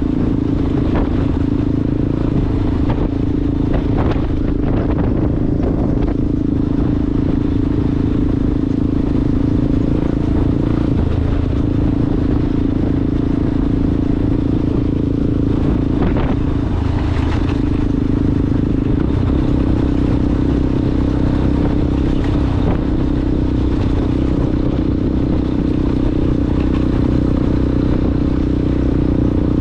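Yamaha Ténéré motorcycle engine with a Coyote aftermarket exhaust running at steady, nearly constant revs while riding off-road, with short clattering knocks from the rough ground here and there.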